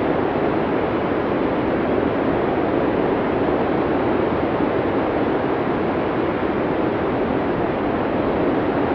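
Blizzard wind sound effect: a steady, even rush of storm wind, heaviest in its low-middle range, with no distinct gusts or whistles.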